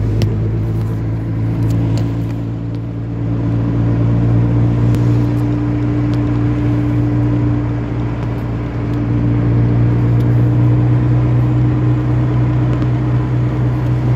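Car engine running steadily, heard from inside the cabin at the driver's feet: a deep, even hum whose level dips and swells slightly a couple of times.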